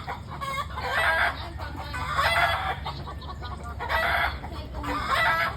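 Chickens clucking, a string of harsh calls roughly a second apart.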